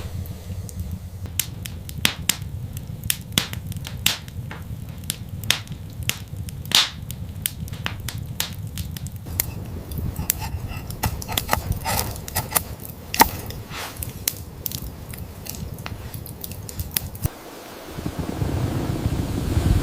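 Irregular sharp cracks and clicks, several a second, over a steady low rumble. About three seconds before the end they stop and a rushing, wind-like noise takes over.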